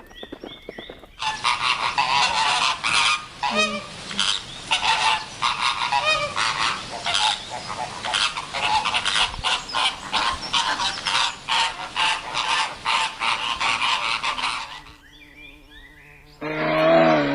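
A flock of domestic waterfowl honking, many overlapping calls repeated over and over; it stops a couple of seconds before the end. Just before the end a cow starts to moo.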